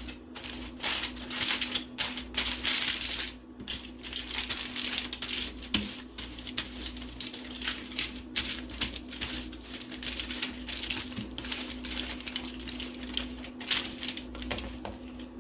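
Wrapping being crinkled and folded around a fish: a dense, irregular crackling and rustling.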